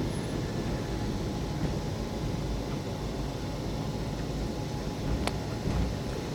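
Steady low rumble of a moving train, with a single sharp click about five seconds in.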